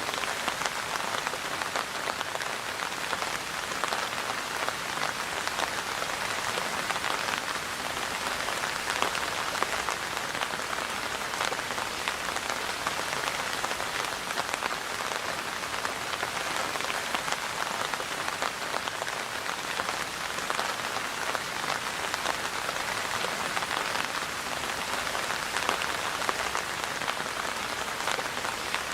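Steady rain falling, a dense hiss of many raindrops striking a surface with fine individual drop ticks.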